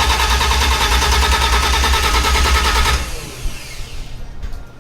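1987 BMW E30's starter cranking the engine in a steady pulsing rhythm without it firing, then cutting off about three seconds in as the starter winds down. The engine is not catching for lack of fuel.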